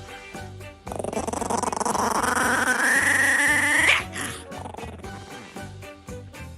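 A puppy gives one long, rough, growling cry of about three seconds that rises in pitch, over background music with a beat.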